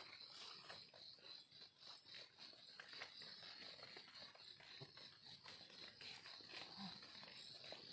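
Faint steady high insect buzz, like cicadas or crickets in the forest, with scattered light crackles of dry leaf litter underfoot.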